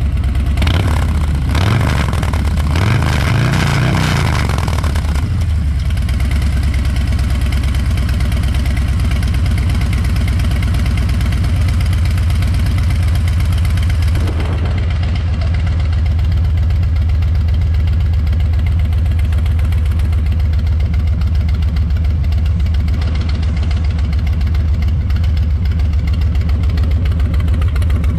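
Harley-Davidson Low Rider S's Milwaukee-Eight 117 V-twin running through a Two Brothers Racing 2-into-1 exhaust. It gives a few quick throttle blips in the first five seconds and a short blip about fourteen seconds in, and otherwise settles into a steady idle.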